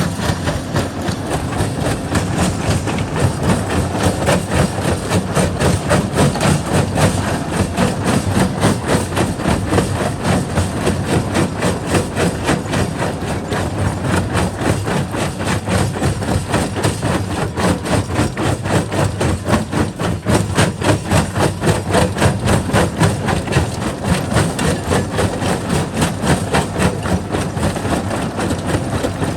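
Jaw rock crusher running and crushing stone, a steady fast knocking rhythm over a heavy low rumble.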